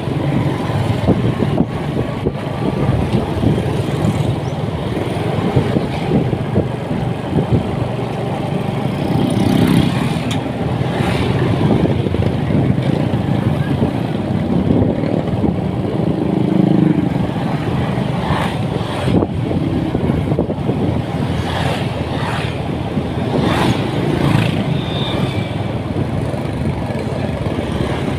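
A motorcycle running on the road, heard from the rider's position, under a steady rush of noise, with a few brief sharper sounds in the last third.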